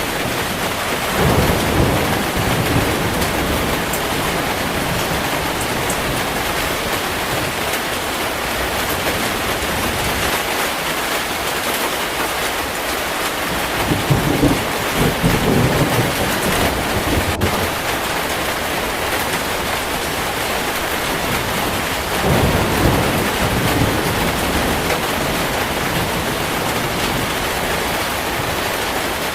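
Steady heavy rain with thunder rumbling three times, about a second in, around the middle and again near the end.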